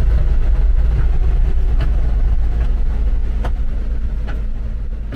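A vehicle on the move: a loud, steady low rumble of engine and road noise with a few light clicks, fading out over the last couple of seconds.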